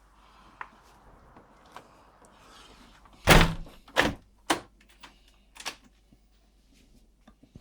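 A run of sharp knocks and thumps, the loudest about three seconds in, followed by a few smaller ones over the next couple of seconds.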